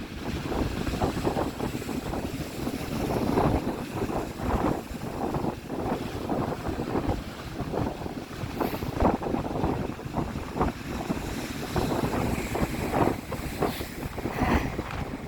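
Strong wind buffeting the microphone in irregular gusts, over sea waves breaking and splashing.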